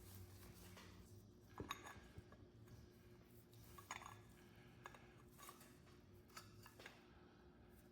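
Faint metallic clinks and light knocks of small metal parts being handled, a few scattered taps spread over several seconds, over a low steady hum.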